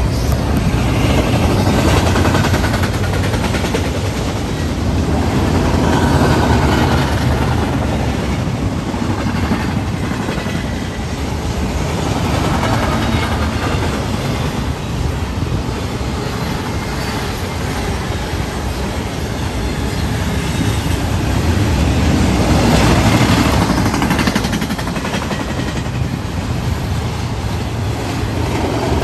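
Double-stack container well cars of a fast intermodal freight train passing close by: a loud, continuous rumble of steel wheels on rail that swells and eases several times as the cars go by.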